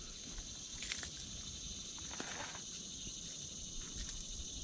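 Steady, high-pitched drone of an insect chorus, with a few faint light clicks.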